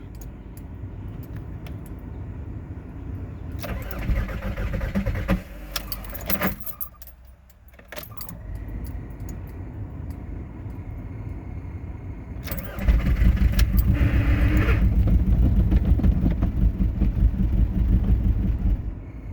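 2004 Volkswagen Jetta TDI's 1.9-litre four-cylinder turbodiesel being cranked by the starter on a hard cold start at −14 °C without its block heater, not yet catching. A shorter, louder spell of cranking comes about four seconds in, and a long stretch of steady, fast, even cranking pulses runs from about thirteen seconds in.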